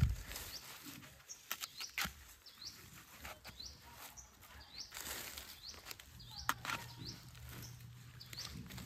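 A bird repeats a short rising chirp about once a second. Under it are rustling of leaves and stems and a few sharp clicks as plants and roots are worked out of garden soil by hand.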